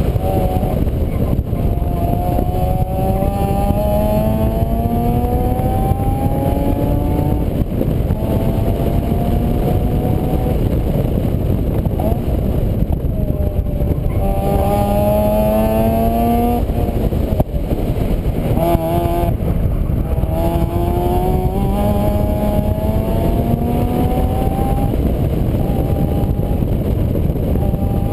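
A vehicle engine accelerating repeatedly, its pitch climbing over a few seconds and then dropping back several times, under a loud steady low rumble.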